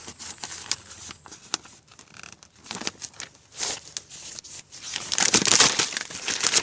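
Paper being crumpled and torn, scattered crackles at first, then loud, dense crinkling from about five seconds in.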